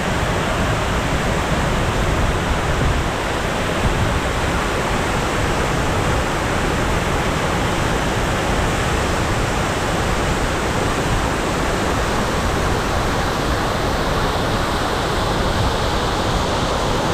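A waterfall in full flow, heard close up: a loud, steady rush of crashing water.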